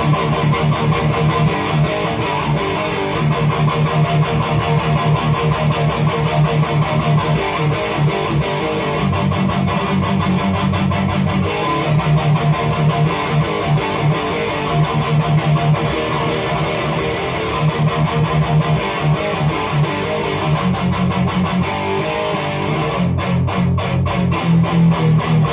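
High-gain electric guitar in drop D playing palm-muted chugging metal riffs through a REVV G3 distortion pedal on its red setting, with heavy low notes in a quick pulsing rhythm, heard from the amp's speakers.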